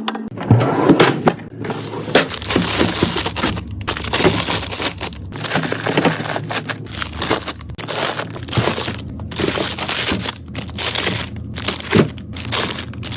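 A run of crunching and crinkling from plastic packaging and food items being handled, with a few sharper knocks mixed in.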